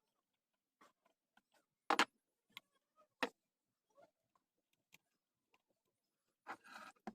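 A few scattered clicks and knocks, the loudest a double knock about two seconds in, then a short scraping rustle near the end: parts and tools being handled on a workbench.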